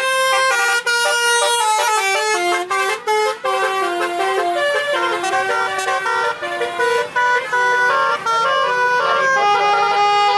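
Truck-mounted basuri musical air horn playing a tune, note after note in quick steps without a break.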